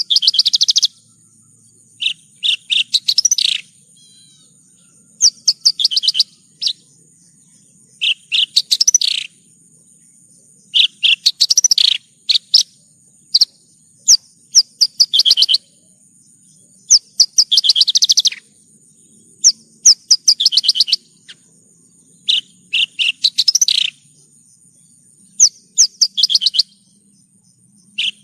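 Javan bush lark (branjangan) singing: short bursts of rapid, high chirping notes, one burst every two to three seconds.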